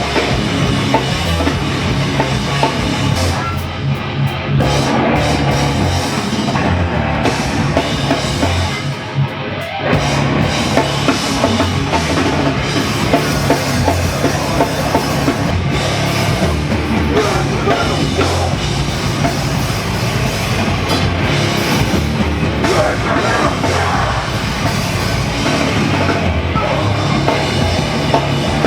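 Loud, dense heavy rock music with a drum kit, in a hardcore or punk style. It briefly thins out about four seconds in and again around nine seconds in.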